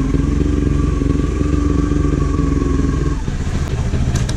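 Kawasaki Ninja 400's parallel-twin engine with an aftermarket exhaust idling steadily while stopped; about three seconds in, the engine note changes and drops to a lower rumble.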